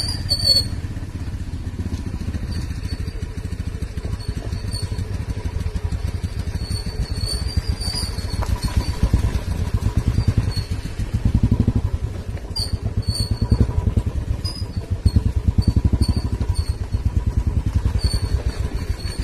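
Engine of a road vehicle under way, a low rumble that pulses rapidly and grows somewhat louder about halfway through.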